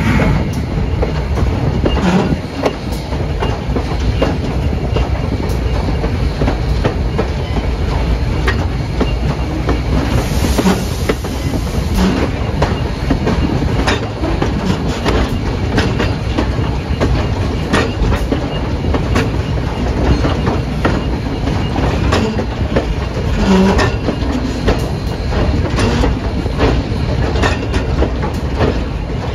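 Train rolling along the track, its wheels clicking over rail joints against a steady rumble.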